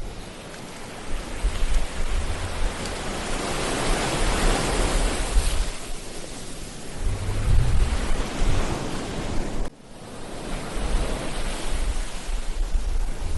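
Ocean waves breaking and washing up a beach, the surf swelling to a peak about four seconds in and again near eight seconds. Wind buffets the microphone with low rumbles, and the sound drops out for an instant about ten seconds in.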